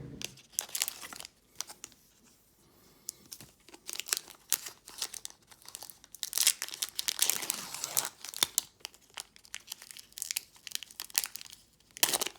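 Crinkling and tearing of a Pokémon TCG booster pack's foil wrapper as it is opened, with the densest crackling about halfway through.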